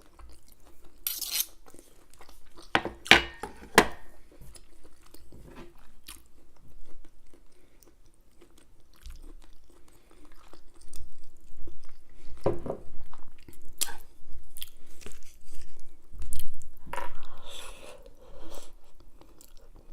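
A person chewing food close to the microphone, with soft, irregular mouth sounds and a few sharp clicks scattered through, the loudest a pair about three and four seconds in.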